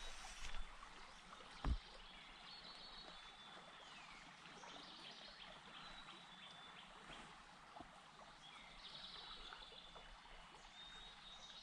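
Songbirds faintly singing and chirping over a steady background hiss, with one brief low thump a couple of seconds in.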